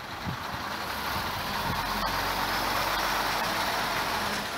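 A truck engine running close by: a steady low hum under a broad hiss that swells a little and eases off near the end.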